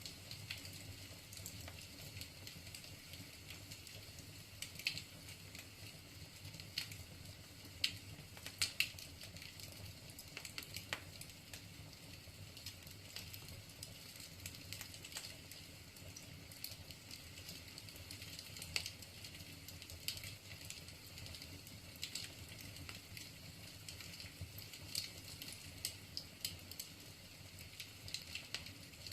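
Wood fire burning in a fireplace: a steady soft hiss with irregular crackles and pops from the burning logs.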